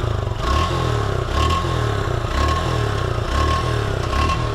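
Suzuki Gixxer 155 single-cylinder engine running steadily on fresh engine oil after an engine flush, its low note swelling and falling about once a second. The owner finds its sound a little changed since the flush.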